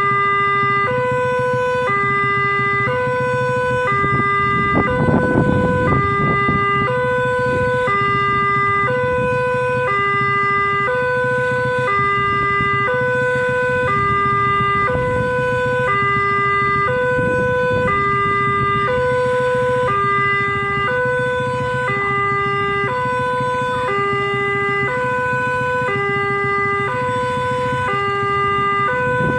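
Railway level-crossing warning alarm sounding steadily: two electronic tones, a higher and a lower, alternating about once a second. Under it runs a low rumble of traffic, briefly louder about five seconds in.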